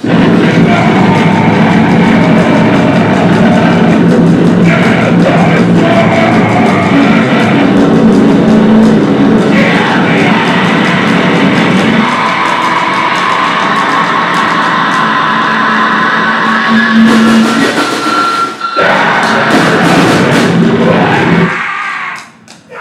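Live noise-grind music: a loud, dense wall of distorted sound with held tones that bursts in suddenly, cuts out for a moment about three-quarters of the way through, and drops away just before the end.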